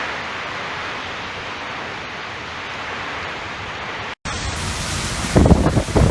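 Steady, even rushing noise of a tropical storm. About four seconds in it cuts off abruptly, and soon after, storm wind gusts buffet the microphone with loud, uneven low thumps.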